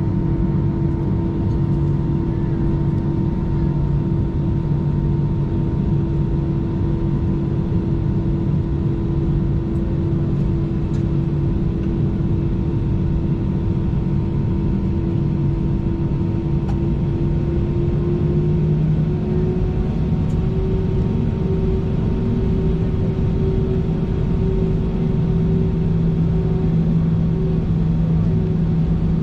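Airbus A319 cabin noise while taxiing: a steady rumble of the jet engines at idle with a constant hum. About two-thirds of the way through, the hum's pitch rises slightly as the engines spool up a little.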